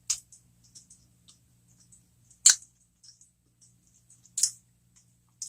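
Close-miked mouth sounds of someone eating: scattered soft clicks and smacks, with a louder sharp click about halfway through and another about four and a half seconds in.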